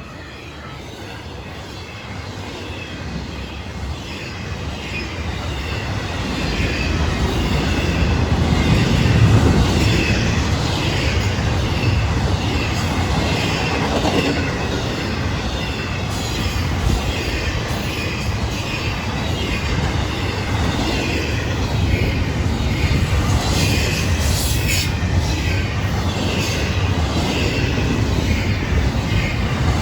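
Diesel-electric freight locomotives with an LNG fuel tender approaching and running past, loudest about nine seconds in. Then a long intermodal train rolls by with a steady rumble, wheel clatter and wavering wheel squeal, the squeal strongest near twenty-four seconds.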